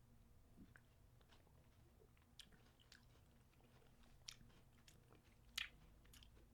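Faint chewing of a crunchy sandwich cookie: scattered small crunches and wet mouth clicks, the sharpest a little over halfway through.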